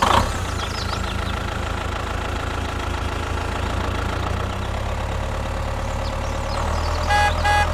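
Engine running steadily: a low rumble with a steady whine above it. Two short beeps sound near the end.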